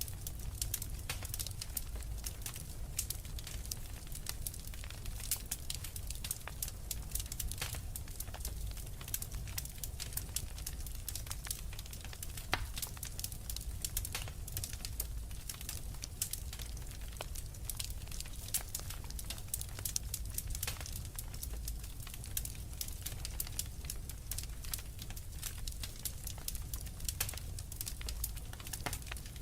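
Wood fire in a fireplace crackling, with a steady stream of irregular sharp snaps and pops over a low rumble.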